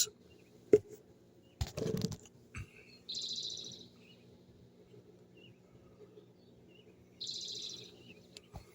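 A small songbird gives two short, high trills, about three seconds and seven seconds in. A sharp knock under a second in and a short clatter around two seconds in come from handling things close by.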